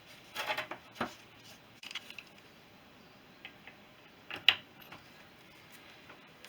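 Workshop handling noises: tools and small metal engine parts clinking and clattering. There is a short rattle near the start, a few single clicks, and one sharper click about four and a half seconds in.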